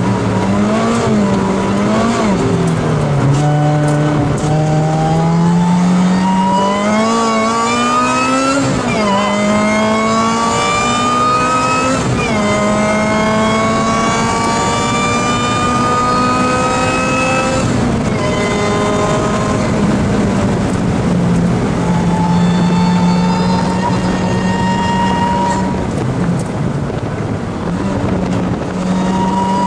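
Supercharged 2006 Lotus Exige's four-cylinder engine at racing speed, heard from inside the cabin. The note climbs through the revs with two quick drops at upshifts about nine and twelve seconds in, falls off a little past halfway as the car slows, runs steadier and lower, and starts climbing again near the end.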